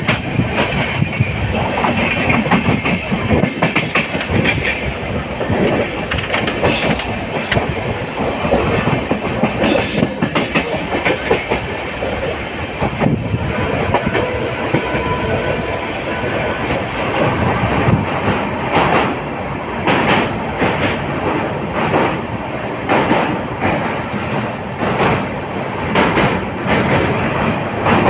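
Passenger express train running along the track, a steady rumble with the wheels clattering over rail joints, heard from on board a coach. The clacks come through more sharply in the second half.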